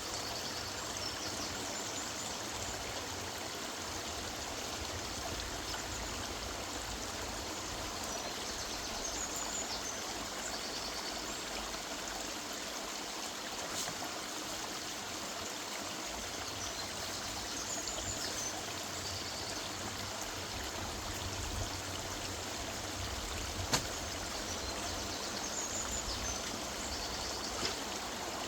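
A woodland river running steadily over its bed. A small bird sings short, high chirping phrases every several seconds, and a single sharp click sounds near the end.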